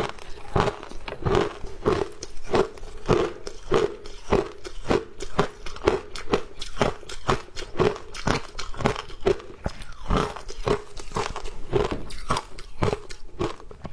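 Ice being chewed and crunched with the teeth, close to the microphone, in a steady run of crunches about two a second.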